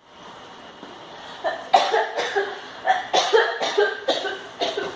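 A person coughing repeatedly: about eight sharp coughs in quick, irregular succession, starting a second and a half in.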